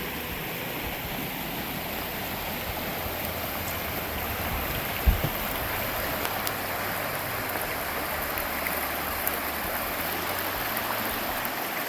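Creek water rushing steadily, with one brief low thump about five seconds in.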